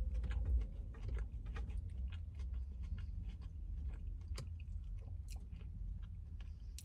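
A person biting into a Caesar chicken salad wrap and chewing it with the mouth close to the microphone: many small wet clicks and crunches, over a low steady rumble.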